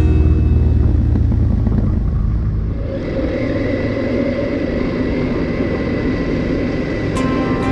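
Motorcycle running at a steady road speed, engine note mixed with wind and road noise, settling into an even drone about three seconds in.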